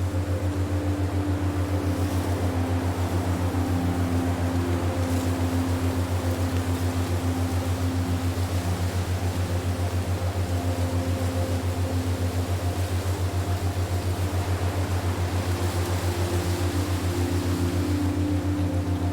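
A steady low droning hum that pulses quickly and evenly, with softer held tones above it that fade in and out: an ambient relaxation drone.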